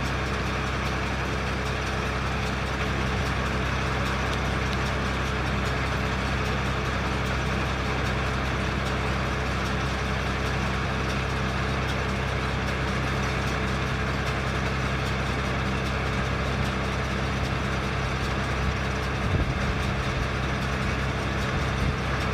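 A steady low mechanical hum, like an idling engine, under a constant hiss, unchanging throughout.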